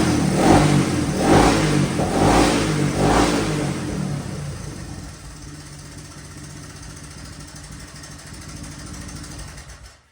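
1981 Honda 185S single-cylinder engine being blipped, about one rev a second, then settling to a steady idle, freshly retimed. The sound cuts off suddenly near the end.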